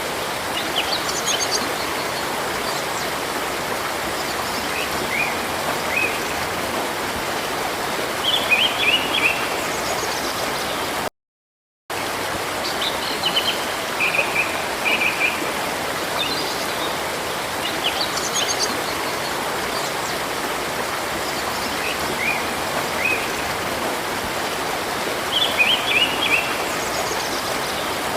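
Steadily rushing river water with small birds chirping over it in scattered short runs of high notes. The sound cuts out completely for under a second about eleven seconds in.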